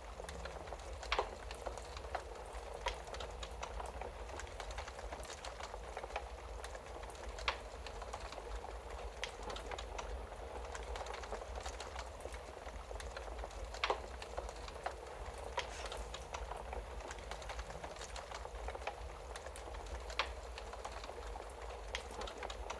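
Wood fire crackling in a fireplace: a steady hiss dotted with sharp pops, the loudest about a second in, near the middle and near the end, over a low steady rumble.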